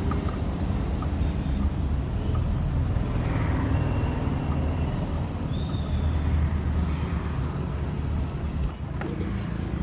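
Steady rumble of motor vehicles and road traffic.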